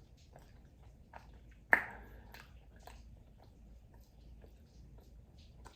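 Close-up chewing and crunching of fried food, a run of small wet clicks and crunches, with one sharp, much louder crunch or click a little under two seconds in.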